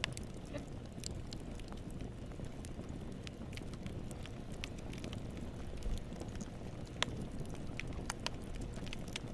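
Steady low rumbling noise with scattered, irregular sharp crackles and pops, the loudest pop about seven seconds in.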